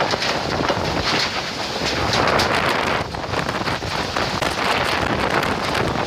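Summer storm: strong gusting wind buffeting the microphone, with heavy rain, a loud rushing noise that swells and eases.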